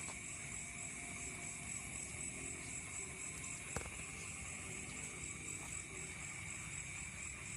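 Night insects, crickets, chirping steadily in a rice field: one continuous high trill and a higher, rapidly pulsing chirp over a low background hiss. There is a single sharp click about four seconds in.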